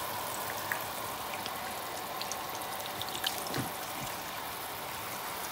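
Large steel pot of water heating on the stove: a steady faint hiss, with scattered light ticks and drips as hot oil is ladled into the water.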